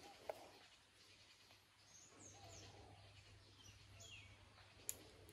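Quiet outdoor ambience with a few faint, short bird chirps that slide downward, and two sharp clicks, one just after the start and one near the end.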